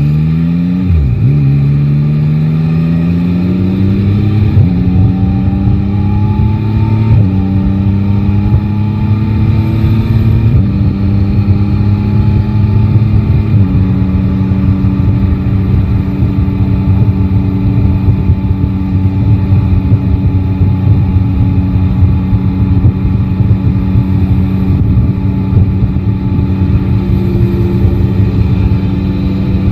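Yamaha Tracer 9 GT's inline three-cylinder engine accelerating up through the gears, its pitch climbing and then dropping at each of four upshifts in the first half. It then runs at a steady cruise, with road and wind noise underneath.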